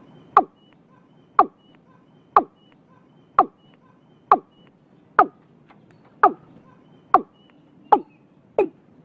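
Watercock calling: a series of about ten short, deep notes, each dropping in pitch, spaced about a second apart and coming a little faster near the end.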